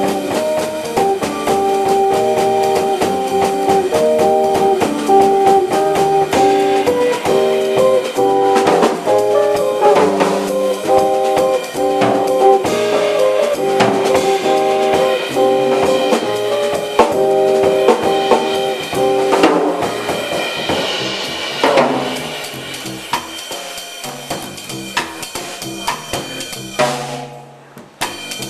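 Small jazz band of two tenor saxophones, guitar, bass and drum kit playing an instrumental piece. Held pitched notes, likely the horns' melody, sound over steady drumming with snare and bass drum until about two-thirds through, when the texture thins and the drums come forward, with a brief break in the sound near the end.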